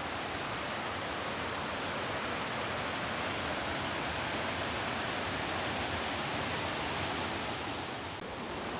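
A waterfall's rushing water: a steady, even roar of falling water.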